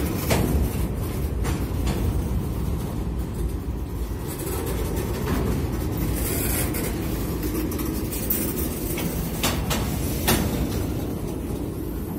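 Freight train of grain hopper cars rolling slowly past at close range: a steady low rumble of wheels on rail, with a few sharp clicks and clanks scattered through it.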